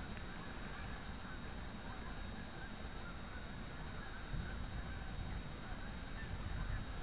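Faint, distant honking calls of a flock of geese flying over, under a steady low rumble.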